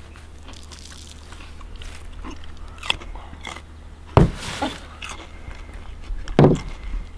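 Someone biting into and chewing a slice of raw potato sprinkled with salt. There are a few sharp crunches, the loudest about four seconds in.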